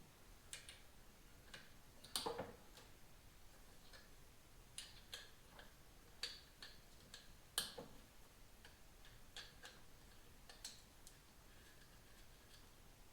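Faint, irregular clicks and light taps of hand tools and small motorcycle parts being handled while handlebar controls are taken apart, with two sharper knocks, about two seconds in and halfway through.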